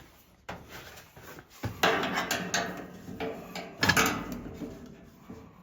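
Hard objects knocking and clattering, with the loudest clanks about two seconds in and again about four seconds in, some with a brief metallic ring.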